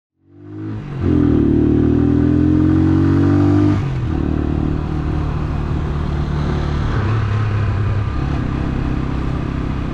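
AKT NKD 125 single-cylinder motorcycle engine under way. It fades in, climbs in pitch while accelerating, drops abruptly just under four seconds in, then runs steadily.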